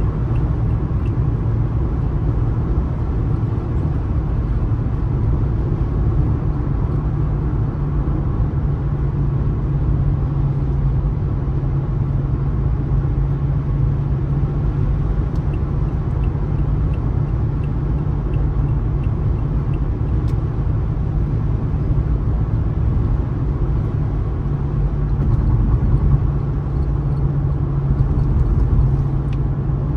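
Car driving along a road: a steady low rumble of tyres and engine, swelling slightly a few seconds before the end.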